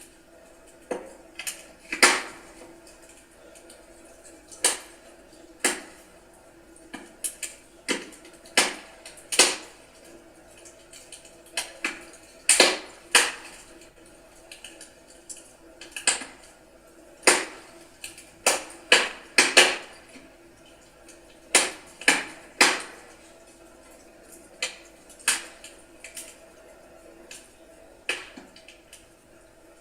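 Wood fire crackling in a fireplace: sharp pops and snaps at uneven intervals, roughly one a second, over a low steady hiss of the burning logs.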